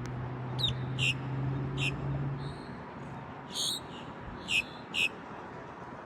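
Bird calls: about six short, sharp, high-pitched calls at uneven intervals, the first with a quick downward slur.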